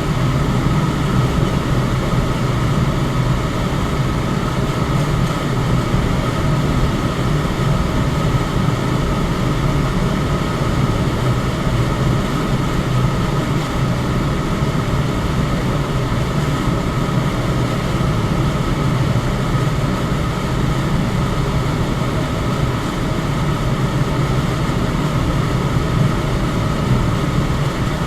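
Electric fan running steadily: an even rush of moving air over a low hum, with a faint steady whine on top.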